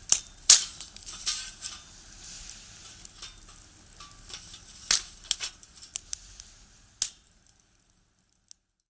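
Firewood burning in a box stove, crackling with a soft hiss and irregular sharp pops; the loudest pop is about half a second in. The sound stops near the end.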